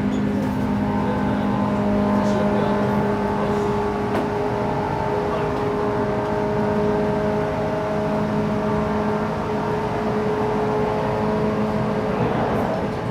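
Cabin sound of a JR West 117-series electric train running along the line: a steady mix of rolling noise and a motor hum made of several steady tones.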